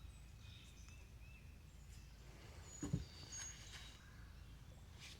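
Faint birdsong: short high whistles and chirps from several birds, over a low steady rumble, with a single soft knock about three seconds in.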